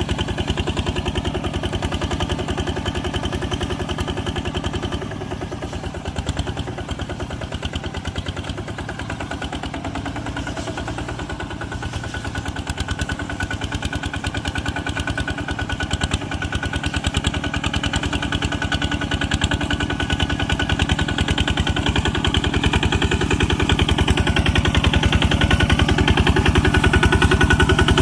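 Tractor engine running, its exhaust a rapid, even chugging of pulses. It drops a little in level about five seconds in and grows louder over the last third.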